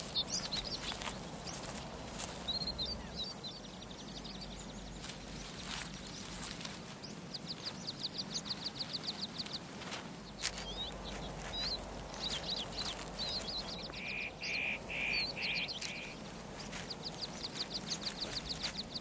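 Forest ambience with songbirds calling: high chirps and two bouts of fast, rapidly repeated trills, with a short series of about five lower pulsed notes partway through. Occasional sharp clicks sound over a faint steady background.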